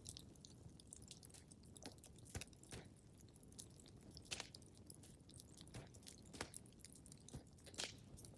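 Wood fire crackling in a fireplace: irregular sharp pops and snaps, a few seconds apart, over a soft low rumble.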